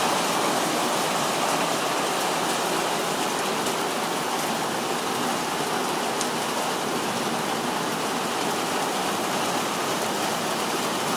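Heavy rain mixed with dime-size hail falling, a steady dense hiss with a few faint ticks of hailstones.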